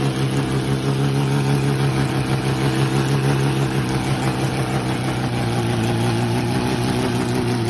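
A vehicle engine running steadily at an even, low pitch.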